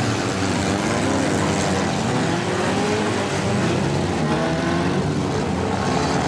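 Engines of several compact demolition-derby cars revving together, their pitches rising and falling continuously.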